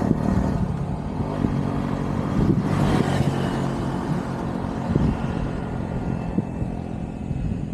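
A motor vehicle's engine running, its pitch shifting up and down, with rough road or wind noise underneath.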